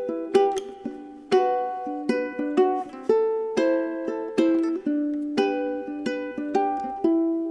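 Background music: a relaxing solo plucked guitar piece, notes plucked roughly once or twice a second and left to ring out.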